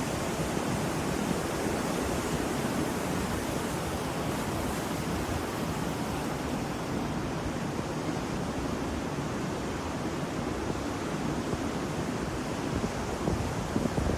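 Ocean surf washing steadily, a continuous rushing hiss of waves without distinct breaks.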